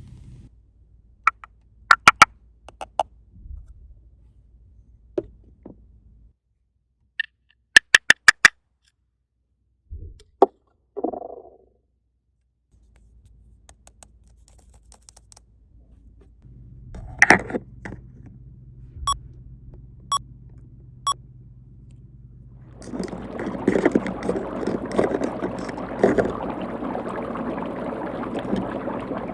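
Small plastic toy pieces clicking and tapping as they are handled, with long pauses between the knocks. In the last six seconds a steady rush of running or poured water.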